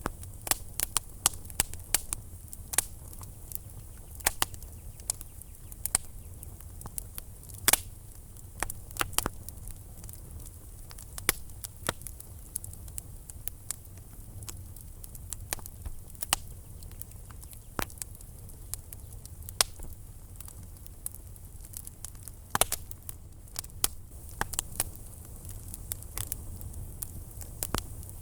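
Wood fire burning in a fireplace: frequent sharp, irregular crackles and pops over a low, steady rumble of the flames.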